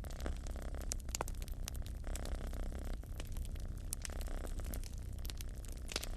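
A cat purring steadily, a low rumble that swells and eases with its breathing, over a wood fire crackling with irregular sharp pops, the loudest about a second in and near the end.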